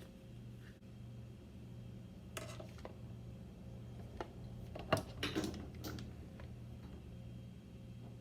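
Light clinks and knocks of cutlery and dishes, a few scattered and a closer cluster about five seconds in, over a steady low hum.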